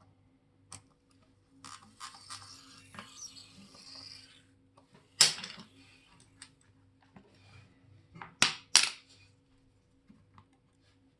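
Small metal watch tools and parts clicking and tapping on a hard work surface, with a scratchy rubbing for a couple of seconds early on. Three sharp clicks stand out: one about five seconds in, and two close together a few seconds later.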